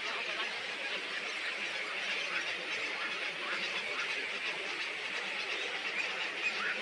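A large flock of birds chirping and chattering all at once, a dense, steady chorus of many short overlapping calls.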